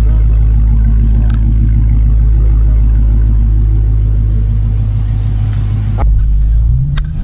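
Dodge Charger Hellcat's supercharged 6.2-litre Hemi V8 idling steadily, heard close to the rear of the car. About six seconds in it changes to the engine heard from inside the cabin as the car pulls away slowly, the pitch rising slightly near the end.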